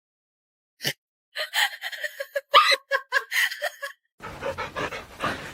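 A person laughing in quick short bursts for a couple of seconds. It cuts off abruptly and a different noisy sound starts near the end.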